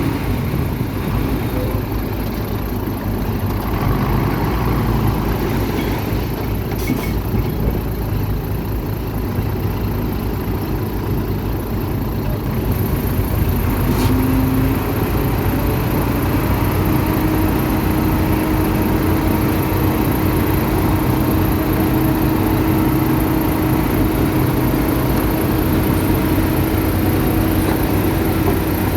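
Diesel engine of heavy earthmoving machinery running steadily under work, with a steady higher hum that sets in about halfway through.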